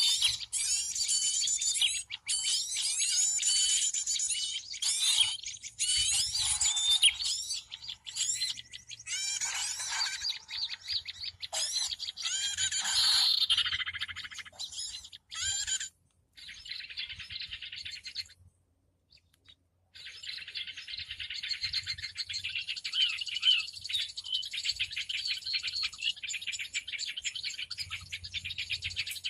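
Recording of many small birds chirping and chattering at once, a busy high-pitched chorus played as a bird-luring call. It cuts out briefly about two-thirds of the way through, then returns as denser, steadier chatter.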